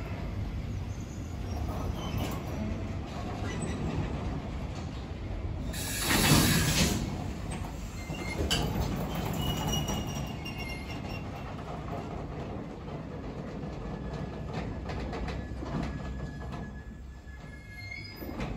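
Freight train of sliding-wall wagons rolling slowly past and drawing to a stop, its wheels rumbling on the rails with a few brief high squeals. A loud hiss lasts about a second, some six seconds in.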